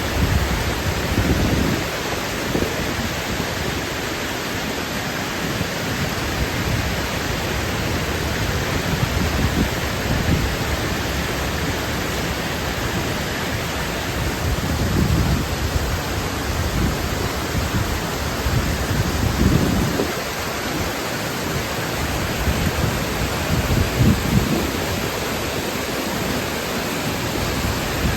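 River water rushing steadily, with occasional low rumbles.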